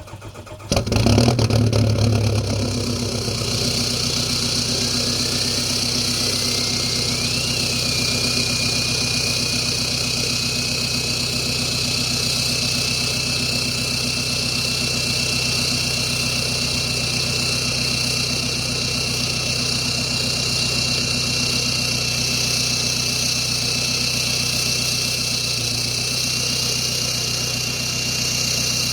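Volkswagen TDI turbodiesel with a straight-pipe exhaust starting about a second in, then idling steadily. A high turbo whistle rises over the first several seconds and then holds steady over the idle.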